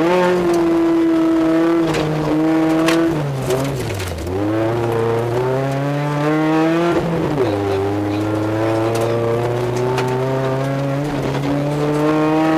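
Dodge Neon rally car's four-cylinder engine heard from inside the cabin at full effort on a gravel road. The revs climb, fall sharply about two seconds in, dip deep around four seconds, climb again, drop just after seven seconds, then rise steadily. There are scattered sharp clicks over the engine.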